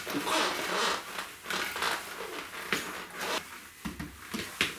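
Rustling and scraping of new amplifier grille cloth being handled and fitted, with a few sharp clicks and taps.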